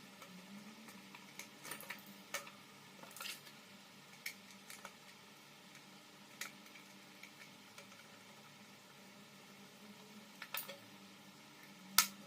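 Scattered light clicks and taps of small hard parts being handled, over a faint steady hum, with a sharper click near the end.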